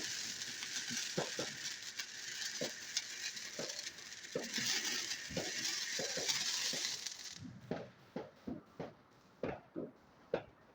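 A ground firework fountain fizzing and crackling steadily, then cutting off about seven seconds in. After that come scattered separate clicks and pops.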